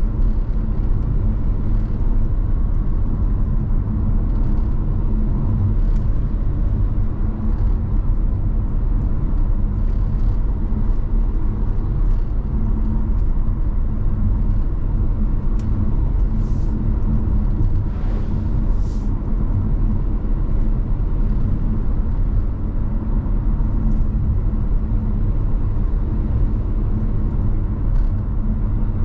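Car driving at steady speed on a highway: a constant low rumble of engine and tyres with a faint steady hum, and a few faint ticks midway.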